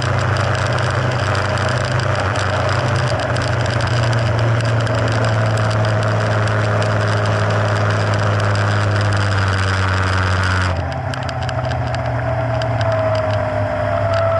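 Mercury F60 four-stroke outboard motor running steadily with a broad rushing noise over its engine note. About three-quarters of the way through the rush cuts out abruptly and the sound becomes lower and a little quieter, with a faint whine sliding slowly down in pitch near the end.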